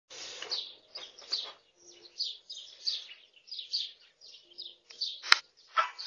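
Small birds chirping and singing in quick, repeated short notes, with a single sharp click about five seconds in.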